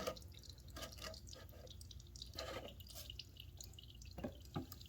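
Gasoline dripping from a lawn mower carburetor's float bowl as its bolt is loosened: a few faint, irregular drips.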